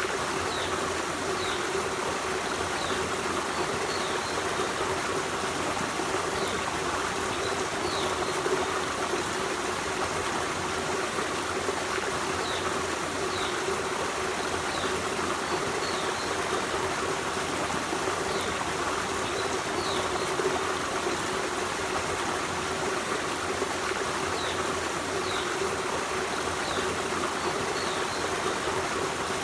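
Forest stream running steadily over rocks, a continuous rush and trickle of water. Faint short high chirps repeat every second or two.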